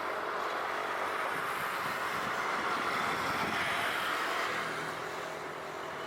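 Airbus A350-900 airliner's Rolls-Royce Trent XWB jet engines rushing as it passes on landing, the noise swelling to its loudest a little past the middle and then fading.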